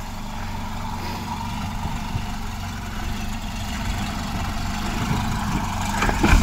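Ford Focus sedan's engine running at low revs as the car creeps down a steep dirt slope, getting gradually louder as it comes nearer, with a sharp thump near the end.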